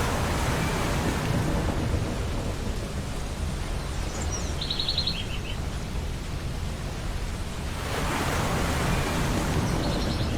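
Ocean surf with a constant low rumble, as waves break and wash in at the start and again about eight seconds in. A bird gives a short run of quick high calls about halfway through and again near the end.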